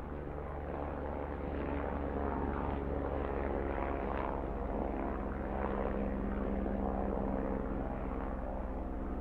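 Helicopter engine and rotor sound effect, a steady drone.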